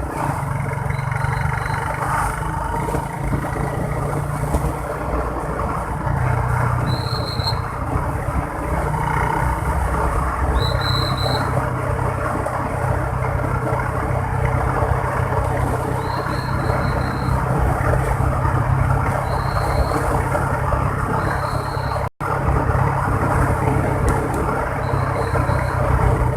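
Motorbike riding in road traffic: steady engine and road noise with a heavy low rumble. Short high beeps sound now and then, and the sound cuts out for an instant about 22 seconds in.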